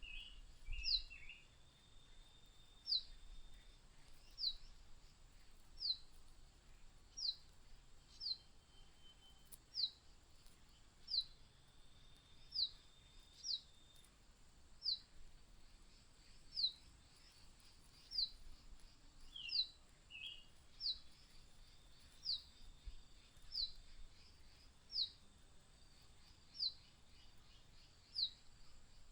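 A bird calling a short, high, falling note over and over, about once every second and a half, with a few lower chirps near the start and again about twenty seconds in.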